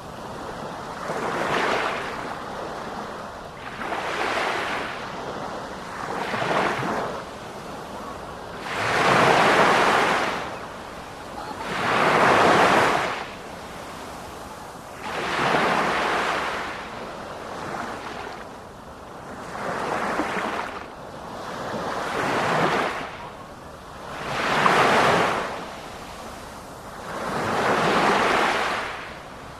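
Sea waves breaking on the shore again and again, each surge of surf swelling and falling back about every two to three seconds, some much louder than others.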